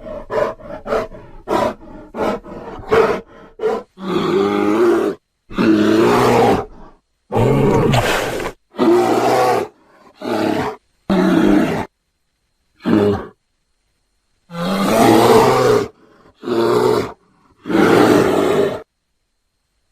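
Bear roars and grunts made from grizzly and black bear recordings for a creature sound effect. A quick run of short grunts, about three a second, gives way about four seconds in to a series of roughly ten roars, each about a second long, with short pauses between them.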